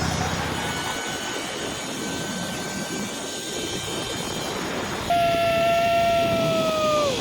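Zipline trolley pulleys running along the steel cable with a steady whine. About five seconds in a louder, lower whine starts abruptly, and its pitch drops near the end.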